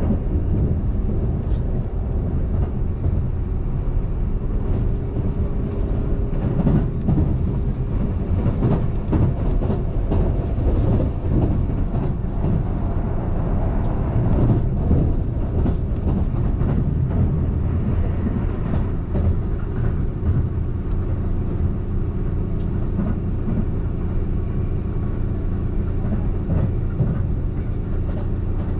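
Keihan Main Line limited express electric train running at speed, heard from inside the car: a steady low rumble of wheels on rail with a faint steady hum and a few sharp clicks.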